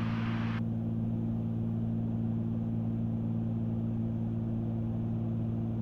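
Steady drone of a Cessna 310Q's twin piston engines and propellers in cruise, heard in the cockpit as a low, even hum. A higher hiss cuts off about half a second in.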